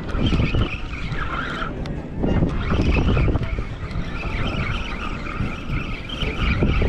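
Boat engine running with a steady low rumble and a wavering high whine, mixed with wind and water noise.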